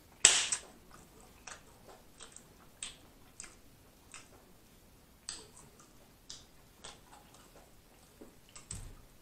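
Close-miked mouth sounds of a person eating barbecue ribs: soft, separate wet clicks of chewing every half second or so, with one louder sharp sound just after the start and a soft low bump near the end.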